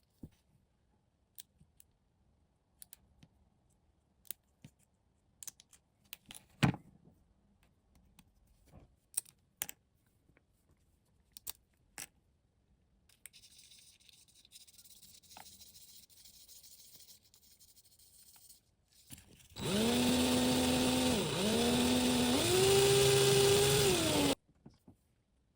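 Light clicks and taps of small parts being handled, then a small electric motor whining for about five seconds in three spurts, its pitch stepping higher each time before it cuts off.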